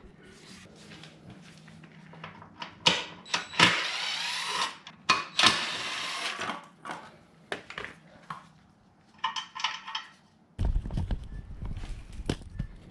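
Tools working on a motorcycle's swing arm: scattered clinks and knocks of metal on metal, with two loud, harsh noisy bursts of about a second each around the middle and a short whir near the end.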